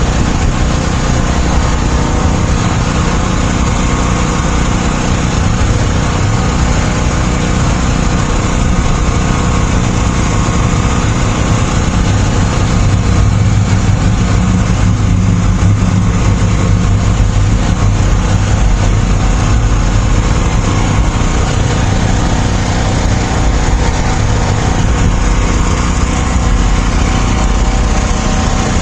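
A motor vehicle engine running steadily, swelling slightly in the middle.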